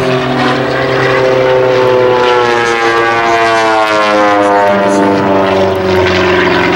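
Propeller engines of aerobatic airplanes running loudly overhead, their pitch gliding slowly downward as they pass.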